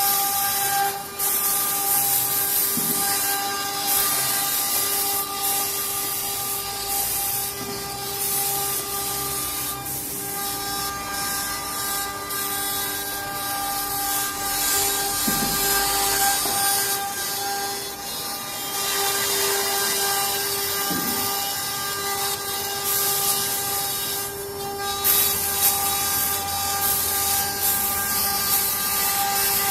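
CNC wood carving router at work: the spindle's steady whine over the rough, shifting noise of the bit cutting into wood.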